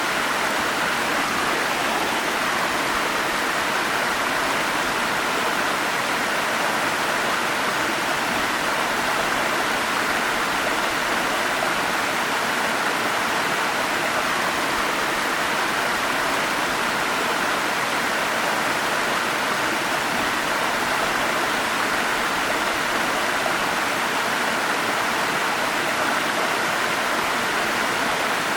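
Forest stream running steadily: an even, unbroken rush of flowing water.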